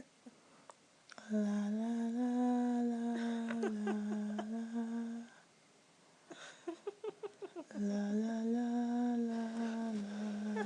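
A person humming a slow, low melody in two long held phrases, with a short pause between them.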